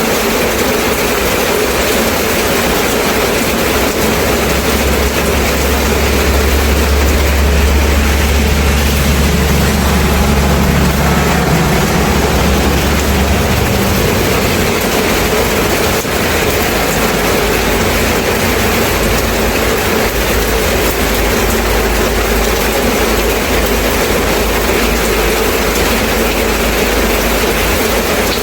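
Steady, loud rain. A low rumble joins it about four seconds in and stops about halfway through.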